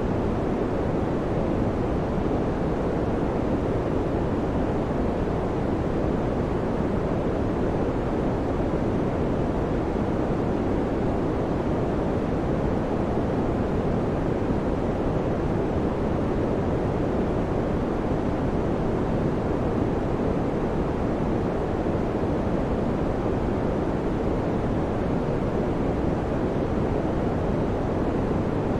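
Electric fan running steadily: an even, low-pitched rushing noise that does not change.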